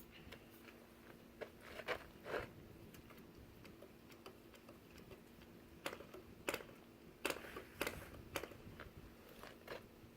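Scattered light clicks and knocks, about nine of them, from hands handling a small model glow engine as it is readied for starting, over a faint steady hum; the engine is not yet running.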